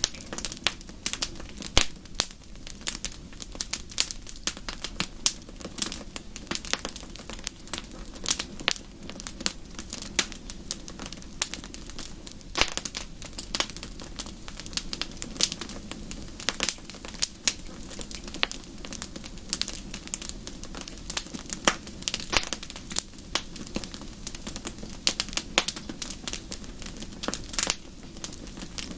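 Wood fire burning in a fireplace, crackling and popping in many irregular sharp snaps over a steady low rumble of the flames.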